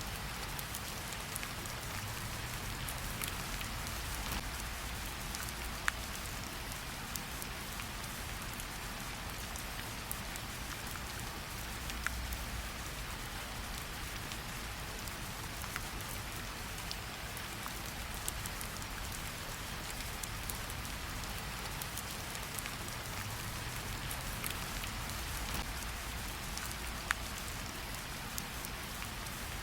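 Steady rain pattering on tree leaves, with individual drops dripping and ticking clearly every so often, a few louder ones standing out.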